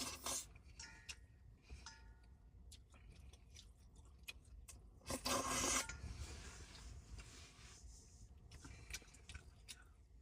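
Eating sounds: small clicks and scrapes of utensils against a bowl, a few with a brief ringing note, and a short, louder rustle about five seconds in.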